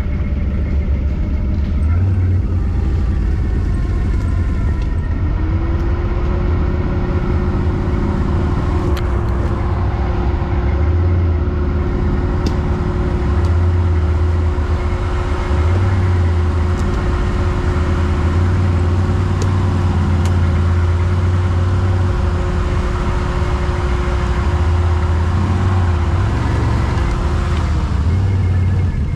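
Quad bike (ATV) engine running steadily with a deep rumble. A steady whine joins it from about five seconds in and cuts out shortly before the end.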